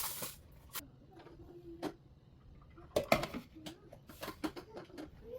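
Irregular light clicks and taps of small toys being handled and set down, a cluster of quicker taps about three seconds in.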